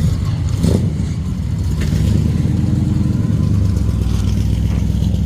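Vintage car engine running steadily at idle, with an even low firing pulse.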